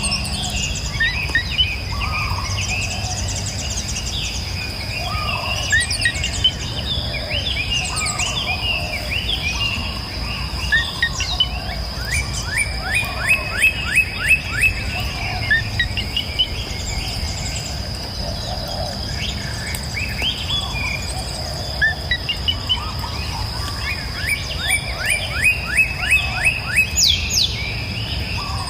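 Several songbirds singing and calling, with two runs of quick repeated descending notes, over a steady high insect buzz and a low rush of flowing river water.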